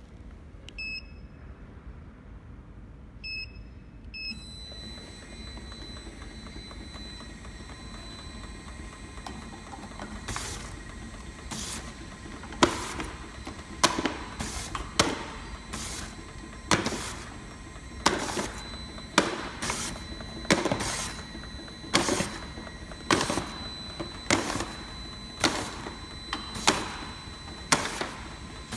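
Automatic round-bottle labeling machine: a few short beeps, then the machine running with a steady hum. From about ten seconds in, a sharp clack comes about once a second.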